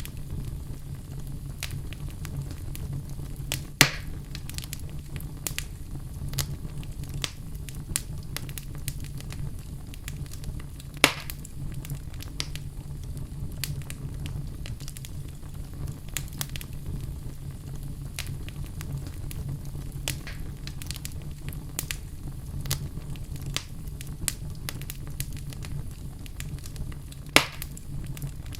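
Wood fire burning in a fireplace: a steady low rumble of the flames with constant scattered crackles and three louder pops, about four seconds in, about eleven seconds in and near the end.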